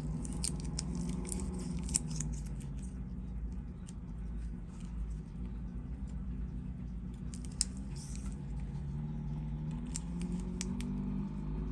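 Light metallic clicks and ticks of small hand tools on watch parts, over a low, steady drone from a small engine that wavers in pitch, running unevenly as if struggling to keep going.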